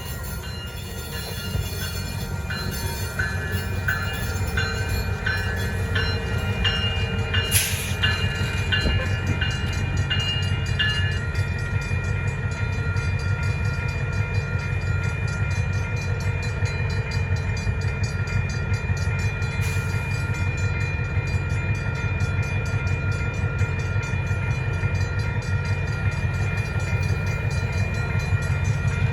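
Diesel engines of EMD SW1500 switcher locomotives rumbling steadily as the train rolls through a level crossing, growing slowly louder. The crossing bell rings in repeated strokes over roughly the first eleven seconds, with a single sharp knock about a third of the way in.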